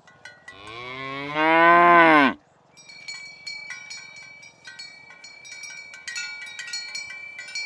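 A cow moos once, a long loud call that rises and then falls in pitch. It is followed by bells clanking irregularly, with a ringing tone, as the cows walk.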